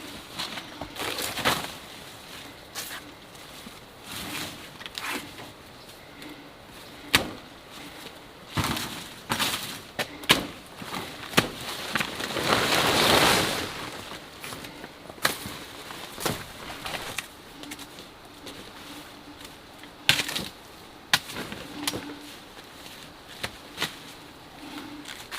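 Irregular sharp cracks and knocks with a longer rustle about halfway through: wild banana plants being cut and handled.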